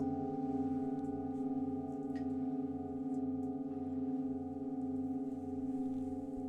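Singing bowl ringing in a long, steady, sustained tone with several overtones, the deepest tone pulsing about twice a second.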